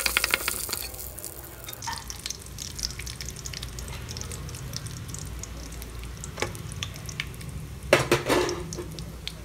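Tempering of mustard seeds, cumin, dals, peanuts, curry leaves and dried red chilli sautéing in hot groundnut oil in a steel pan: a busy crackle in the first second, then a soft sizzle with scattered pops. A perforated steel spatula stirs and scrapes the pan, loudest about eight seconds in.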